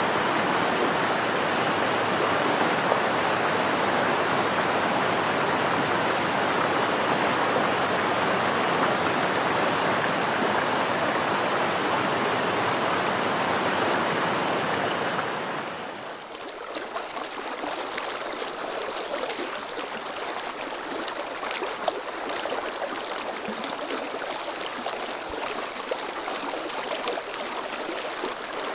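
Rushing water of a clear mountain stream in a gorge, a steady dense rush. About halfway through it drops to a quieter, thinner flow flecked with small ticks.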